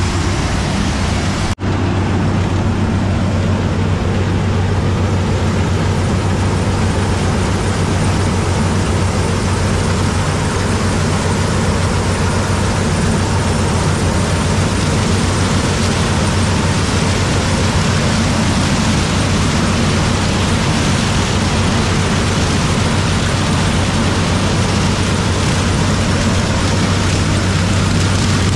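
Heavy farm machine's engine running steadily at a constant speed, with a strong low hum under a wide mechanical noise, and a momentary break about one and a half seconds in.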